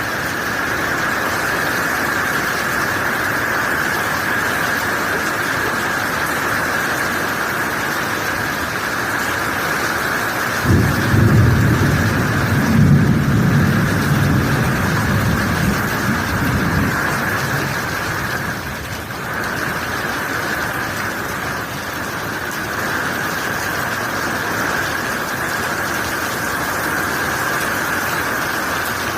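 Heavy rain falling steadily, with a low rumble of thunder that breaks in about a third of the way through, is loudest for a couple of seconds, and dies away over about six seconds.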